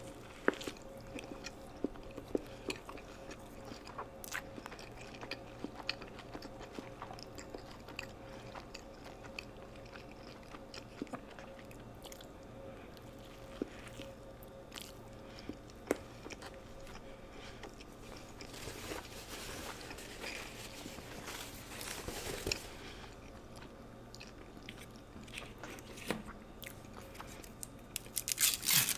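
Close-miked eating of McDonald's fast food: scattered bites, crunches and wet mouth clicks while chewing, with a denser stretch of crunching about two-thirds of the way in and a quick cluster of crunches near the end. A faint steady hum sits underneath.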